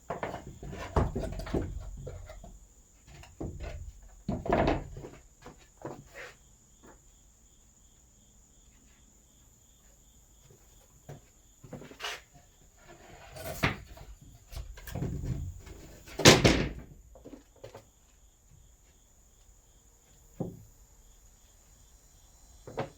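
A cut plywood sheet being handled and laid onto wooden floor framing to check its fit: scattered wooden knocks and thumps, the loudest about sixteen seconds in.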